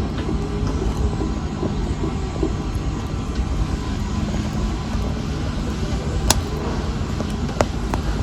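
Wood fire burning in a fireplace: a steady low rumbling hiss with scattered crackles and a few sharp pops, the clearest about six seconds in and again a little over a second later.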